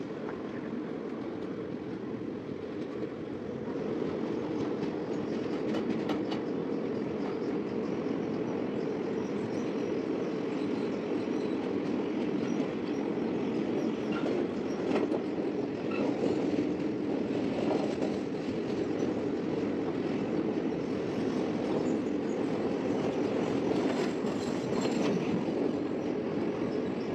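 Indian Railways express train running at speed, heard from an open coach doorway: a steady rumble of wheels on rail with occasional faint clicks, growing louder about four seconds in as the coach runs through a tunnel.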